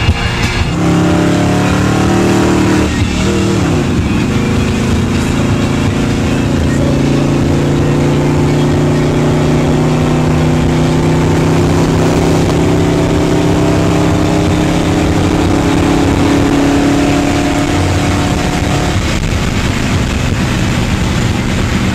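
A classic American car's engine heard from inside the cabin. It climbs in pitch as the car accelerates, dips and climbs again about three to four seconds in, then settles into a steady drone at cruising speed, dropping in pitch near the end.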